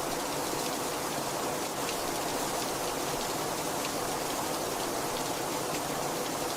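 Very heavy rain falling steadily, a dense even hiss with a few faint drop ticks.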